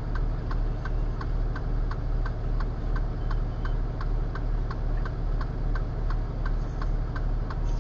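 Truck engine idling steadily with a low rumble, under the even ticking of the flasher relay at about three ticks a second, heard from inside the flatbed tow truck's cab.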